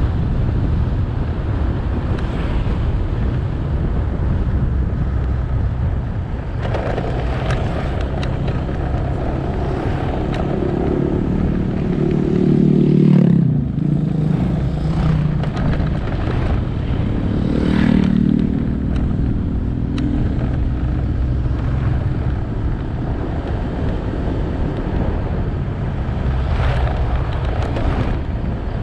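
Motorcycle riding along a road: steady wind rush on the microphone and road noise, with engine tones that climb and then drop away sharply about halfway through, and swell again shortly after.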